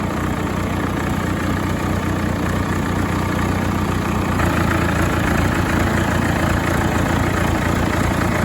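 Tractor engine running steadily at low speed, a little louder from about halfway through.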